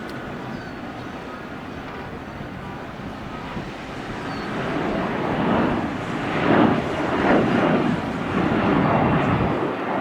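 Jet airliner engine noise: a steady rush that grows louder from about halfway and then surges and fluctuates as the aircraft passes.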